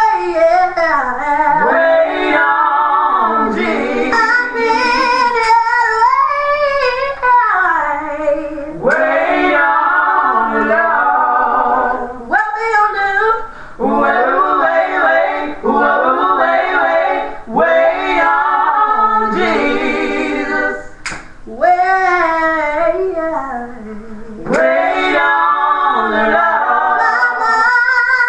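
A woman singing a gospel song, her voice sliding up and down between notes in long melismatic runs with a few short breaths between phrases.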